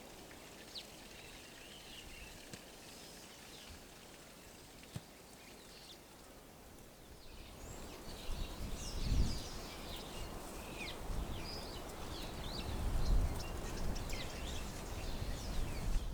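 Birds chirping with many short, quick calls over a background hiss, which becomes louder and busier about halfway through, with low rumbles twice.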